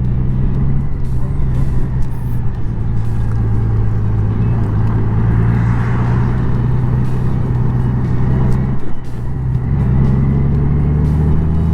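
Honda Gold Wing's flat-six engine running steadily under way at city speed, with wind and road noise. There is a brief dip about three-quarters of the way through, then the engine note climbs a little as it accelerates.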